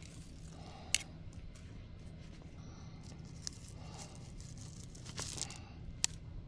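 Weeds and brush being handled and pulled: scattered sharp snaps and clicks of stems breaking, with crackling, rustling leaves in between. The two loudest snaps come about a second in and near the end.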